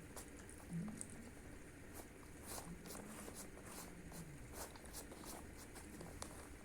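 Quiet eating sounds: irregular light clicks and taps of spoons against plates as people eat.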